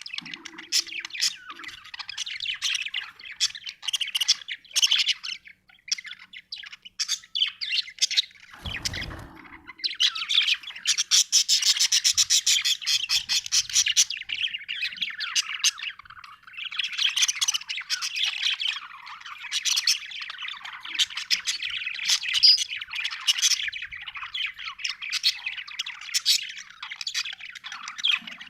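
Budgerigar chattering and chirping continuously in quick, busy high notes, with a fast run of rapid ticking notes a little before the middle. A brief low thud is heard about a third of the way in.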